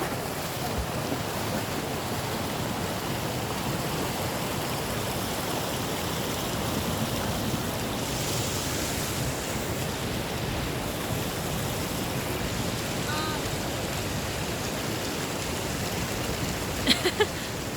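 Steady rushing of a mountain stream's flowing water, with a brief faint pitched call about two-thirds of the way through and a few short sharper sounds near the end.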